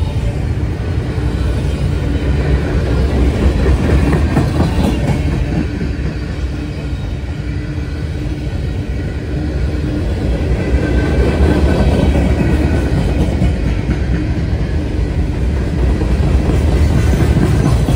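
Mixed freight train of boxcars and container cars rolling past at speed: a steady rumble and clatter of steel wheels on the rails that swells and eases slightly as the cars go by.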